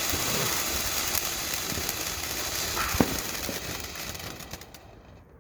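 Golden Crown fountain firework spraying sparks with a steady hiss and scattered crackles, with one sharp pop about three seconds in. It fades and burns out near the end.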